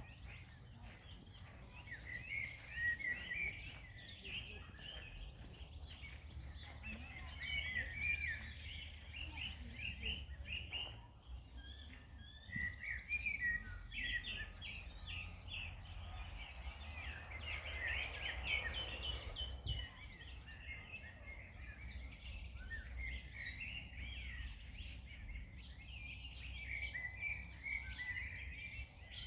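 Several songbirds chirping and trilling almost without pause over a steady low rumble of outdoor background noise, with a soft swell of rushing noise, like a gust through the trees, about sixteen to twenty seconds in.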